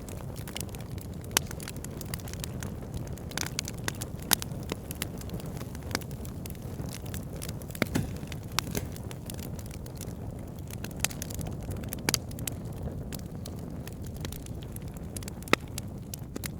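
Wood logs burning in an open fire: a steady low rumble of flame with frequent sharp crackles and pops, a handful of them louder, scattered through.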